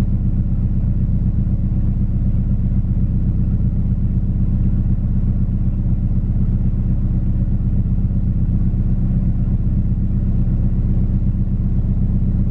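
Toyota 22RE four-cylinder engine idling steadily after an alternator swap, a continuous even running sound that cuts off suddenly at the end.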